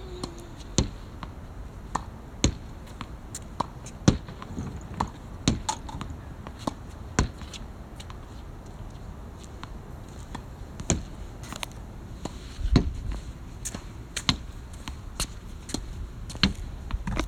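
Badminton rackets striking shuttlecocks: sharp smacks at an uneven pace, roughly one a second, with a few duller thumps on the court.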